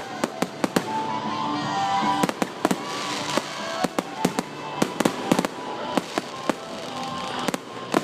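Fireworks bursting overhead: a rapid, uneven string of sharp bangs and crackles, several a second, with music playing underneath.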